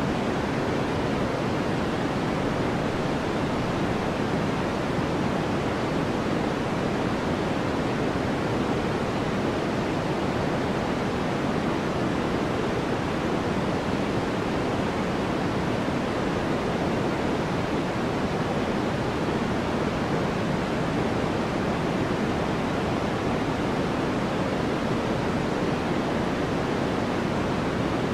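Sleep-aid noise: a steady, unchanging hiss with no rhythm or events. It is weighted toward the lower and middle range rather than bright, more like pink noise than pure white noise.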